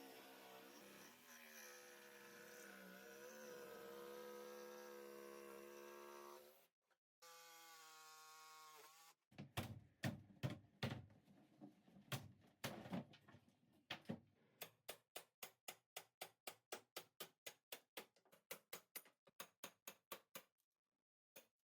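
Quiet music for about seven seconds, a brief steady tone, then a long series of sharp knocks. The knocks are irregular at first and settle into an even beat of about two or three a second near the end.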